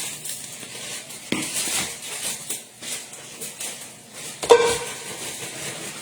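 Kitchenware clatter: a sharp knock about a second in, then a louder ringing clink, as of a metal or dish item striking, near the end, over a steady faint hiss.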